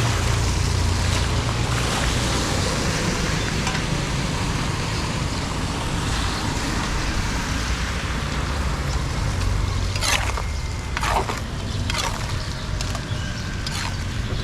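Steady rush of floodwater draining through a cleared storm drain or culvert, with a low rumble underneath. A few brief, sharp sounds come about ten to twelve seconds in.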